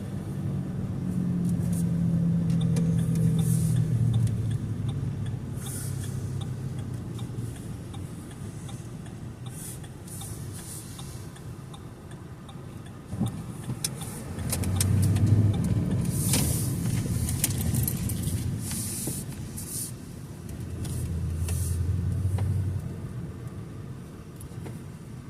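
Car driving, engine and road noise, with the engine note swelling louder three times as it speeds up.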